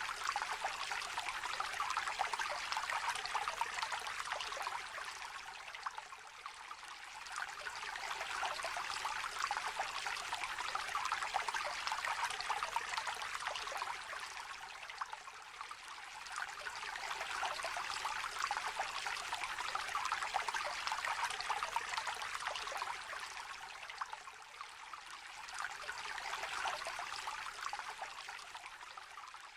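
A small river trickling and babbling, a steady rush of water that swells and eases every eight or nine seconds.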